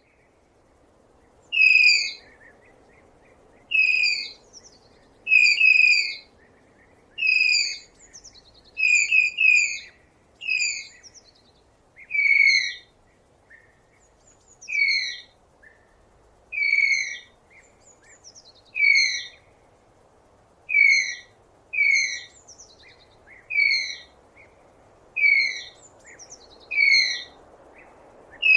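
A tapir giving high-pitched whistling squeals: short calls that drop slightly in pitch, repeated every one to two seconds, some in quick pairs.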